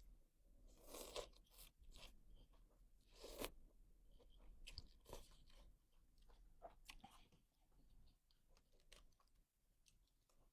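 Quiet close-up chewing and crunching of food, in short irregular crunches. The loudest crunches come about a second in and again at about three and a half seconds.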